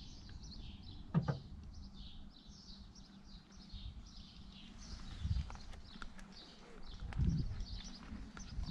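Bird song: a bird repeating short, high, downward-sliding chirps in quick succession, with a few footsteps on pavement.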